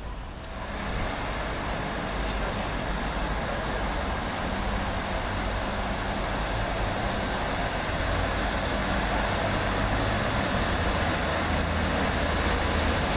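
A train running at the station: a steady low rumble and rolling noise that builds about a second in and then holds.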